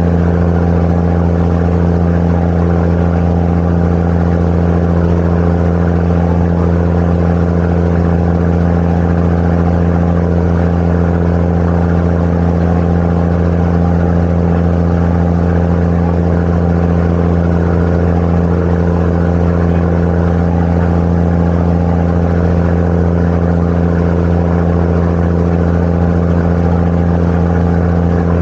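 Sightseeing boat's engine running steadily at cruising speed: a loud, constant low drone with a hum of several tones, mixed with a rushing hiss.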